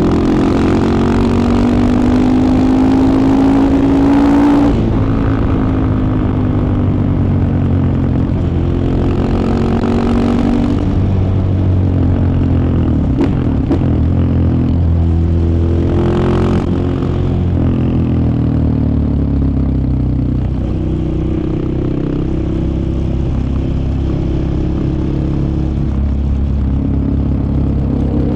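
KTM 690 Enduro R's single-cylinder engine under way, pulling up through the revs with the pitch rising, dropping at a gear change about five seconds in, rising again, then cruising with the throttle rising and easing.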